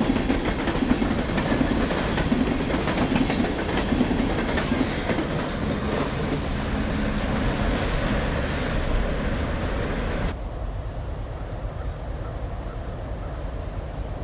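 Train cars rolling past with a rapid clickety-clack of wheels over the rail joints. About ten seconds in, the sound drops abruptly to a quieter low rumble.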